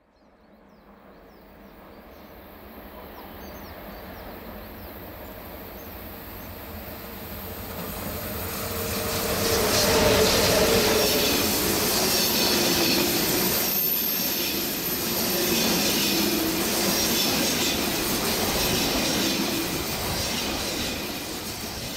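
A train approaching and passing on the Semmering railway, running wheels on rails, with high-pitched wheel squeal. It builds from faint to loud over about ten seconds, stays loud, and begins to fade near the end.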